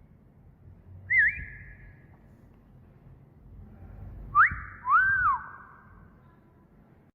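Wolf whistle: a sharp rising note, then a note that rises, holds and falls, about four seconds in. About a second in comes a short, wavering rising whistle.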